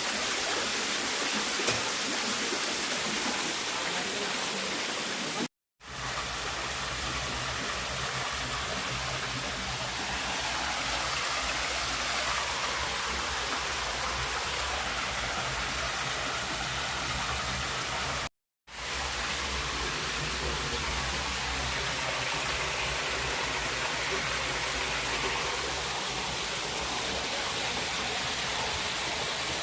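Steady rush of water falling at a waterfall, cutting out for an instant twice.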